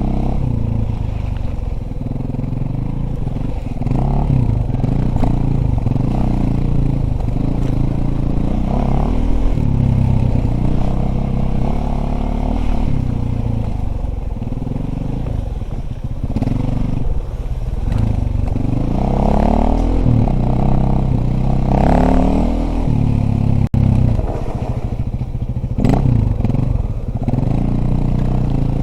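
Dirt bike engine being ridden, revving up and falling back over and over as the throttle opens and closes, with some rattling clatter from the bike.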